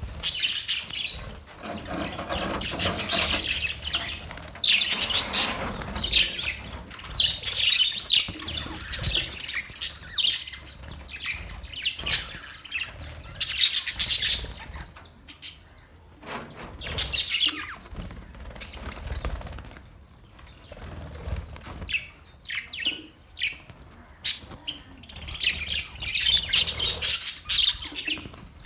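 Pet budgerigars chirping and chattering in repeated bursts of quick, high chirps with short quieter gaps between.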